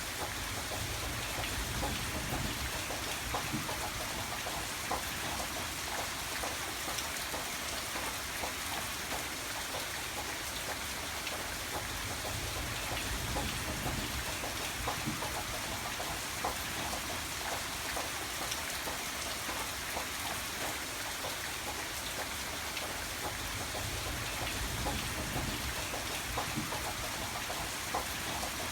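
Steady rain falling, with many individual drops ticking on a surface through the hiss. A low rumble swells and fades about three times.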